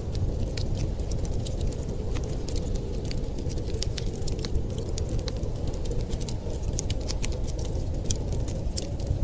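Wood fire crackling with many irregular sharp pops and snaps, over a steady low rumble of blizzard wind.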